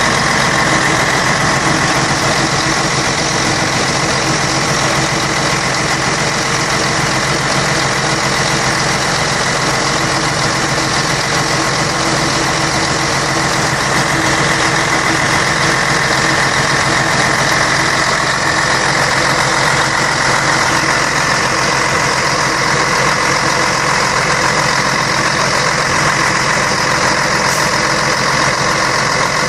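Scania K113 bus's six-cylinder diesel engine running steadily at an even speed, with no revving.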